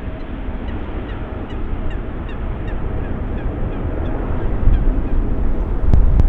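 Jet airliner engine noise, a steady rumble that grows louder toward the end as the aircraft comes closer. A run of short, repeated honks, typical of geese, sounds over it through the first few seconds.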